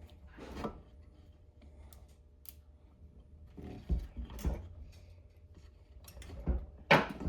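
Hands tying a knot in a chainsaw's recoil starter rope and handling the starter housing: scattered soft rustles and a few light knocks, the loudest about four seconds in and near the end.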